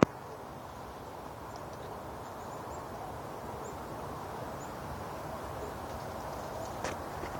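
Steady outdoor background noise with a few faint, short, high chirps in the first few seconds, and a short click near the end.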